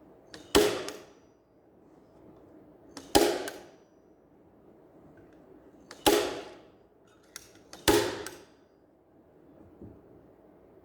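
Upholstery staple gun firing four times, a few seconds apart; each shot is a sharp crack followed by a short hiss.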